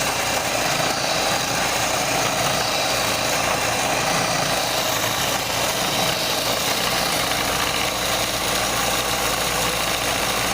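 Electric motor of a homemade table-saw drill press running steadily at constant speed.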